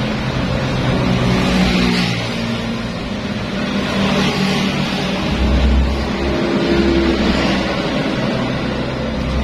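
Motor scooter engine running steadily with a low, even hum; a deeper hum comes up about halfway through.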